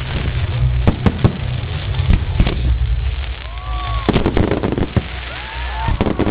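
Firecrackers popping in quick clusters of sharp cracks, with a few short whistling glides that rise and fall, over a steady low rumble.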